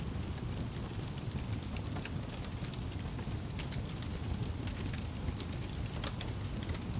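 Wood fire crackling: scattered small sharp pops and snaps over a steady low rumble.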